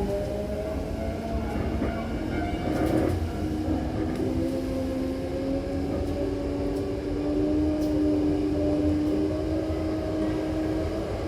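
Hankyu Kyoto Line electric train running, heard from inside the car: a steady rumble with motor whine in several tones that glide slowly upward, one tone stepping down about three seconds in as a new lower one starts to rise, as the train gathers speed.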